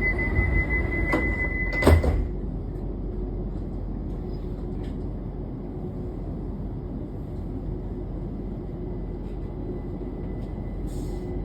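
Class 378 Electrostar electric train running, heard from inside the carriage: a steady rumble with a high whine that stops at a loud clunk about two seconds in, after which the running noise continues more quietly.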